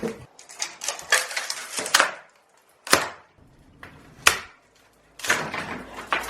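Clattering and scraping of loose debris, with two sharp knocks near the middle.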